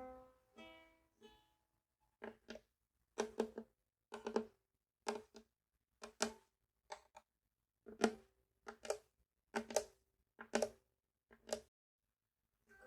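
Ukulele played softly: a few plucked notes ring out at the start, then a run of short, clipped strums follows, often in quick pairs, with brief gaps between them.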